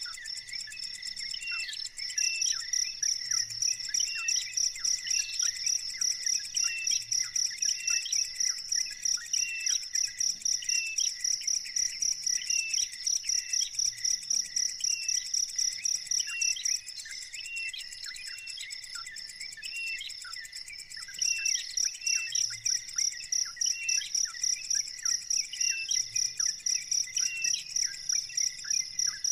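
A high, rapidly pulsed insect trill that stops for a few seconds midway and then resumes, over a bird's short, falling chirps repeated about once a second.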